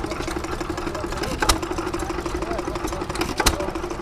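Amanco hit-and-miss stationary engine running, with a sharp single bang at about 1.5 s and again near 3.5 s as it fires only every couple of seconds and coasts between fire strokes. A steady pulsing mechanical hum runs underneath.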